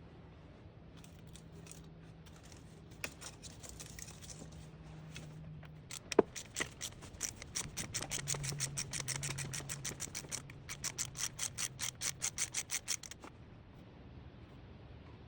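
Socket ratchet clicking in fast, even runs as it spins out a loosened exhaust manifold bolt, with a sharp knock about six seconds in.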